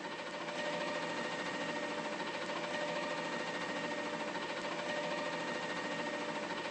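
Mack LR front-loader garbage truck running, a steady mechanical whine of several fixed pitches over an even hiss.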